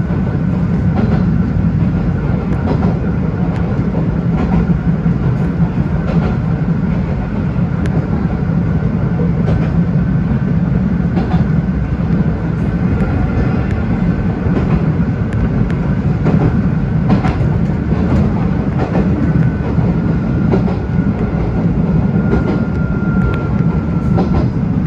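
Electric local train running at speed, heard from inside the front car: a steady rumble of wheels on rail with irregular clicks from rail joints and a faint steady high whine.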